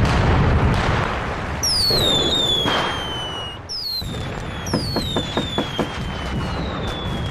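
Fireworks: a crackling hiss, then several whistling rockets, each whistle falling in pitch, followed by a run of short sharp pops.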